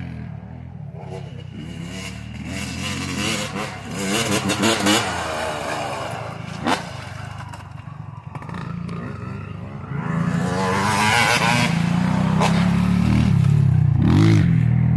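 Motocross bike engines revving up and down, louder from about ten seconds in, with a single sharp knock about seven seconds in.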